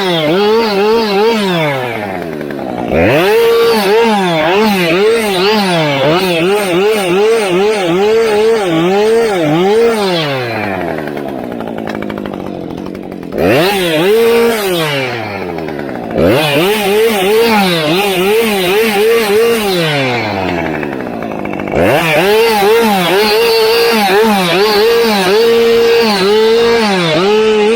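Husqvarna 550 XP Mark II two-stroke chainsaw with a 20-inch bar cutting through storm-loaded limbs at full throttle, its pitch wavering under load. Several times it falls back toward idle and then revs up again for the next cut, with the longest pause in the middle.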